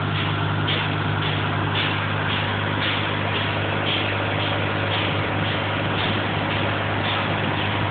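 Water pump running steadily while pumping out flood water: a constant low hum under a hiss, with a faint rhythmic pulsing about twice a second.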